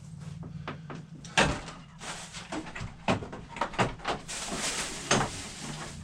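Irregular knocks and clunks of objects being handled and set down on a workbench, the loudest about a second and a half in, with a stretch of rustling near the end, over a low steady hum.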